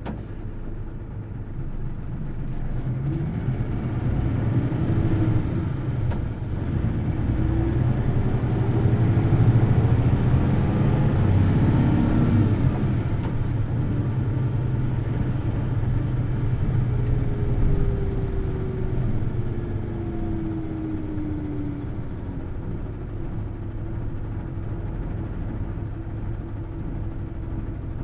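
Hino Blue Ribbon City Hybrid bus running: the engine builds up over the first ten seconds or so with a high whine rising alongside it, which falls away about halfway through. Later the engine note slides down and settles.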